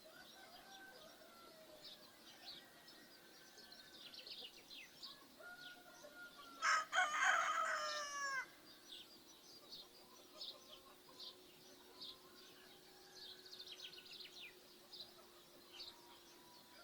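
A rooster crows once, close and loud, about seven seconds in, the call lasting about two seconds. Small birds chirp throughout, and fainter pitched calls come and go.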